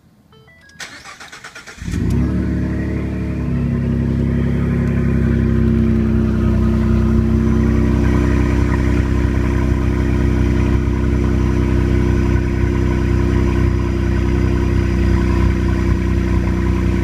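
A 2013 Ford F-150's 3.5 L twin-turbo EcoBoost V6 is cranked by its starter for about a second, catches, and settles into a loud, steady idle. It runs with the muffler and resonator removed, so the exhaust is unsilenced.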